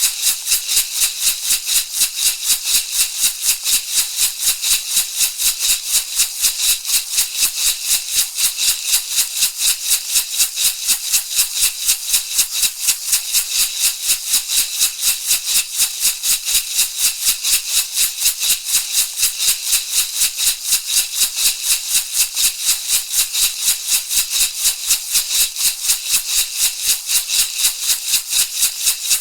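Shamanic rattle shaken in a steady, fast, even rhythm, each shake a bright, crisp rattle of seeds or pebbles.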